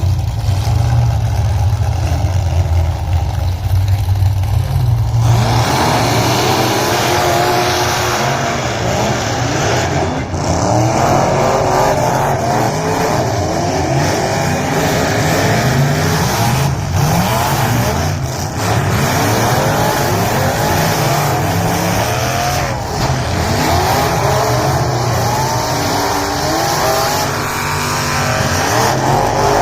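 Several race-car engines revving up and down over one another, with a low engine rumble that suddenly gives way to full racing noise about five seconds in.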